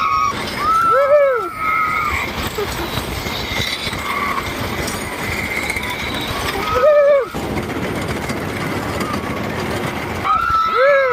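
Roller coaster in motion: a steady rushing noise with riders giving three short, high-pitched yells, about a second in, around seven seconds and near the end.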